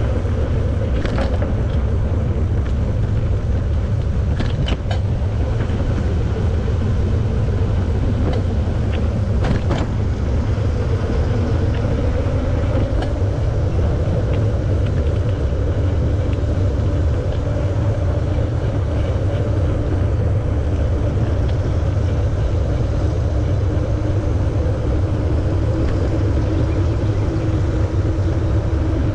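Steady wind rumble on the microphone and rolling tyre noise from a moving bicycle, with a few light clicks and rattles in the first ten seconds.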